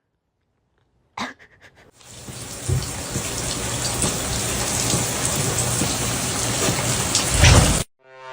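Steady rushing noise of falling water, rain-like, starting about two seconds in after a short knock, swelling briefly and then cutting off suddenly near the end.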